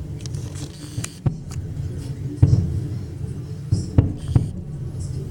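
Fireworks salute shells bursting overhead: about five deep booms at irregular intervals, the last three close together near the end, over a continuous low rumble.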